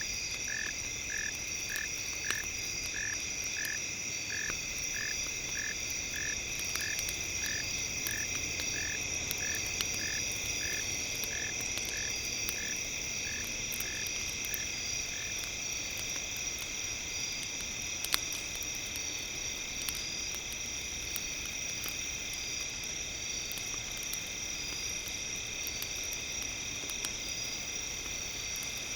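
Crackling campfire with small sharp pops, under several steady high-pitched synthetic tones held throughout. For about the first half a short chirping call repeats about twice a second, then stops.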